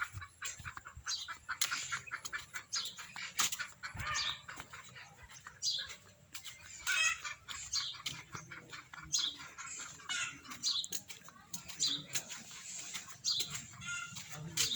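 Birds chirping and calling, many short high calls overlapping one another, with scattered clicks.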